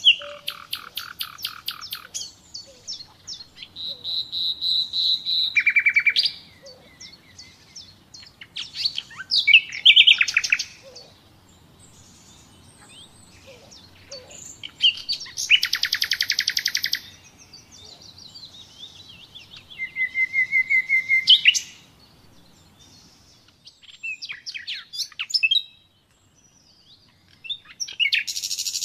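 Common nightingale singing: loud phrases of one to three seconds, many built from fast runs of repeated notes, separated by short pauses.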